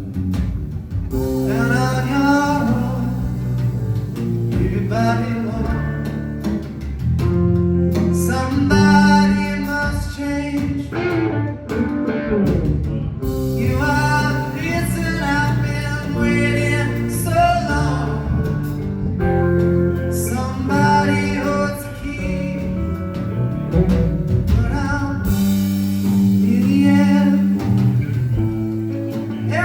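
Live blues-rock band playing loudly: electric guitar and bass guitar under a singing voice, with bending, sliding lead lines.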